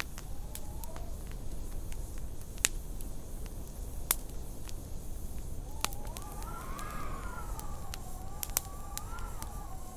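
Wood fire crackling in a fireplace, with scattered sharp pops over a low steady rumble. From about six seconds in, a wavering, whistling howl of wind rises and falls in pitch.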